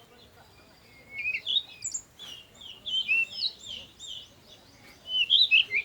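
Small birds chirping and twittering in three spells of quick, high notes that slide up and down, with short pauses between them.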